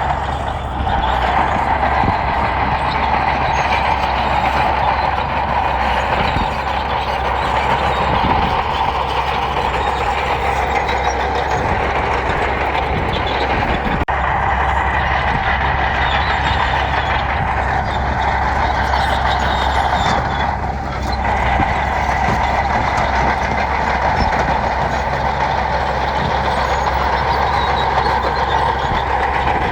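Bulldozer's diesel engine running steadily under load while it pushes gravel, with a brief dip about two-thirds of the way through.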